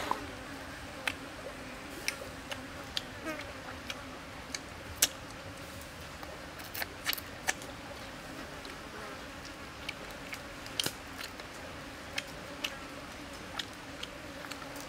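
Irregular sharp clicks and smacks of a person chewing and eating grilled chicken, over a steady background hiss.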